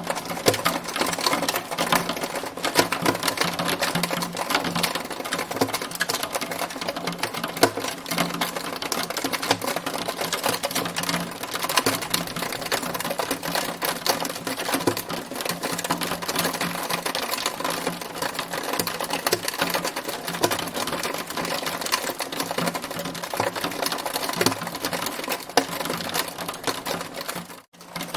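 Hail storm: a dense, continuous rattle of hailstones striking a hard surface, countless fast ticks, that cuts out for a moment near the end.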